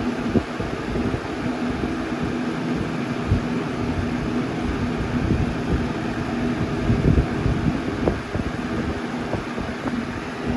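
1995 Windmere box fan with a brace blade running, its airflow buffeting the microphone in irregular low gusts over a steady motor hum.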